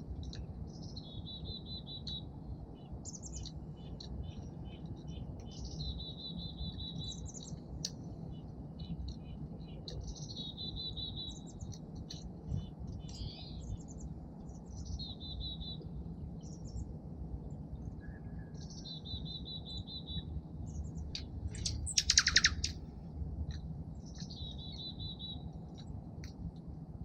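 A songbird repeats the same short song six times, about every four to five seconds: a high note or two, then a trill lasting about a second. About 22 seconds in there is one louder, harsher bird call, over a steady low background rumble.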